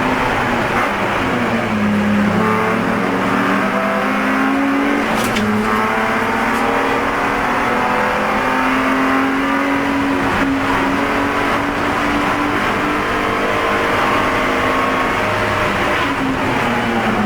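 BMW E46 race car's straight-six engine under racing load, heard from inside the car. The pitch drops near the start, then climbs steadily through the revs with short drops at gear changes or lifts about five, ten and sixteen seconds in.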